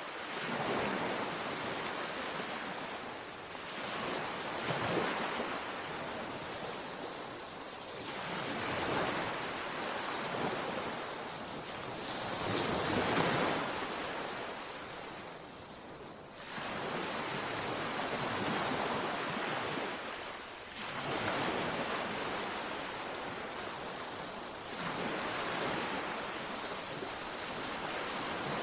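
Sea waves breaking and washing on the shore. The rushing surf swells and falls back in repeated surges every few seconds.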